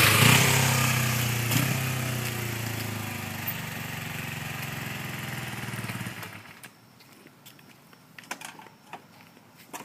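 2007 Kawasaki Ninja 250R's parallel-twin engine running, getting quieter over the first few seconds and then idling steadily, before it is switched off and stops abruptly about six seconds in. A few faint clicks follow.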